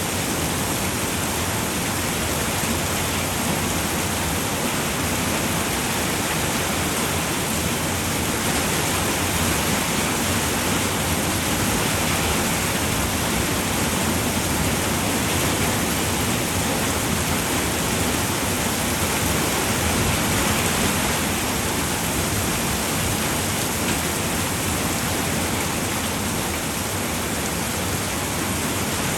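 Steady rain falling on a roof: an even, unbroken hiss with no distinct drips or thunder.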